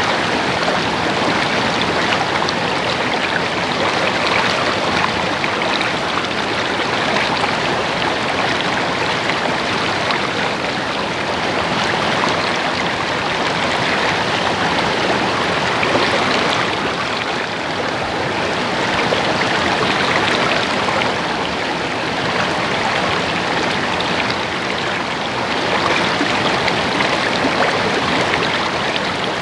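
Stream water babbling steadily.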